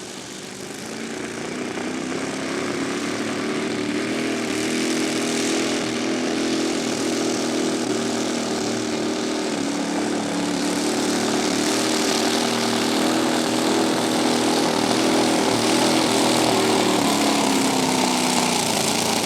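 Engine of a pulling tractor running hard during a pull, growing louder over the first few seconds and holding steady, with its pitch dropping near the end.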